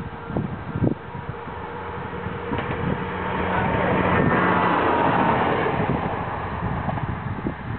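Kiha 3710 diesel railcar passing by, its engine and running noise swelling to a peak around the middle and then fading away.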